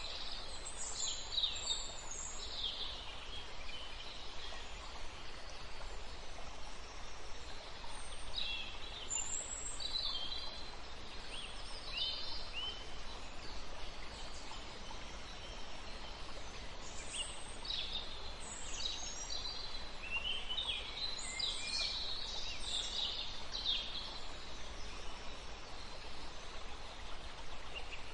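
Birds chirping and singing in short bursts of high calls, over a steady background hiss and a low hum.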